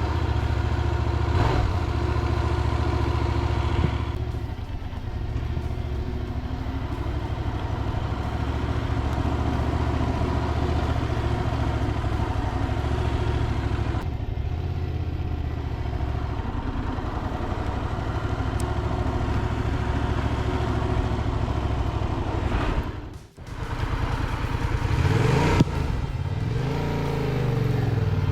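Motorcycle engine running steadily, with the revs rising and falling near the end.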